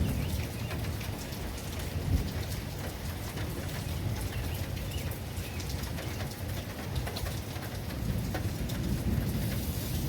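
Steady heavy rain pattering on a surface, with a low rumble of thunder underneath that swells near the end.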